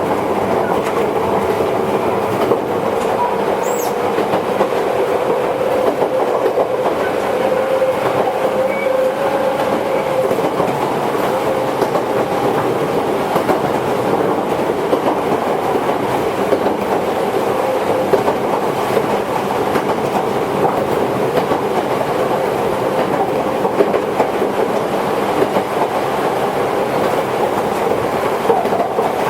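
Toyohashi Railway 1800 series electric train, a former Tokyu car, running along the line: a continuous steady rumble of wheels on rail with a hum held through it.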